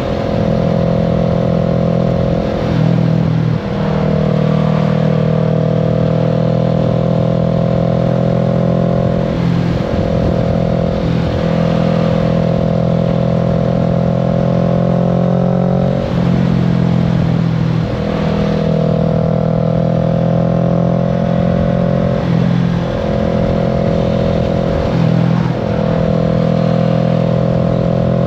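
Kawasaki Z650's parallel-twin engine running while the motorcycle is ridden at steady cruising revs. The note breaks off briefly and picks up again several times.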